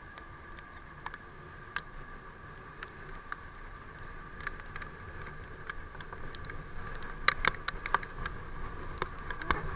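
Bicycle on the move: a steady faint hum with scattered clicks and rattles, which become more frequent and louder about seven seconds in.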